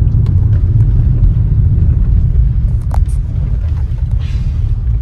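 Car driving over a rough, broken road: a loud, steady low rumble with a few sharp knocks, the strongest about three seconds in.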